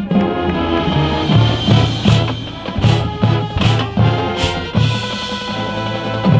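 High school marching band playing its field show: sustained brass chords over a pulsing low drum line, with four cymbal crashes less than a second apart in the middle.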